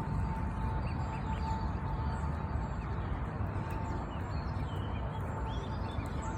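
Waterfowl (ducks and geese) calling in short scattered calls over a steady low rumble.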